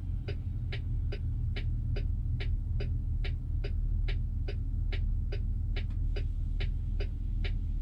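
Low steady engine and road rumble heard from inside a vehicle cab, with a sharp, even ticking about twice a second throughout.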